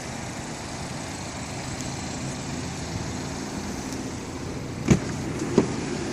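Steady hum of a car standing by, with two sharp clacks close together about five seconds in from the BMW 428i Coupe's door being opened.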